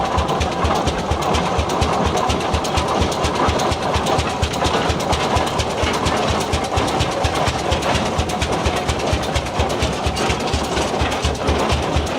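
Antique engine running steadily with a rapid, even beat of about five or six strokes a second.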